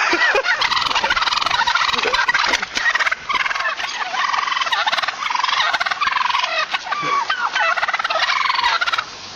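A flock of turkeys gobbling, many calls overlapping without a break until a short pause near the end.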